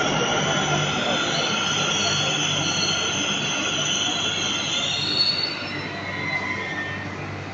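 Namma Metro train moving along the rails with its wheels squealing: several high squealing tones over a steady rumble, fading out after about five seconds.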